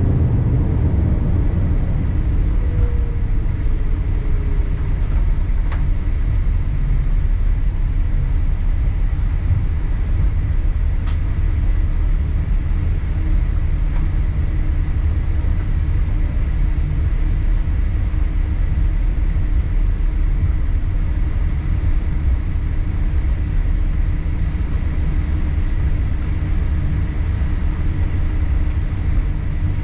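Cabin noise of a Boeing 787-8 rolling on the ground after landing: a steady low rumble from the engines and the wheels. A tone drops in pitch in the first few seconds, and a steady hum sets in about halfway through.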